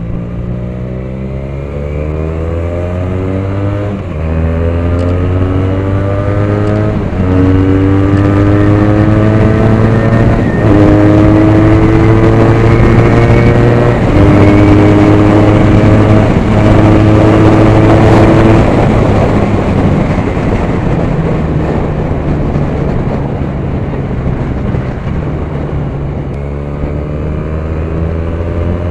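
Benelli TNT 300 parallel-twin engine and exhaust accelerating hard through the gears. The note climbs and drops back at each of about five upshifts; a little past halfway the throttle rolls off and the note falls for several seconds, then starts to climb again near the end.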